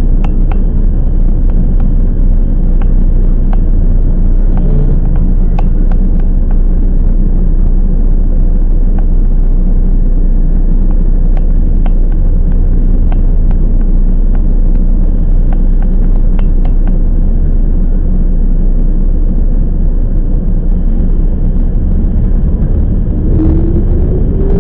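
Toyama Chihō Railway 10030 series electric train running, heard from inside the car: a steady rumble of wheels on rail with scattered faint clicks, and a rising whine near the end.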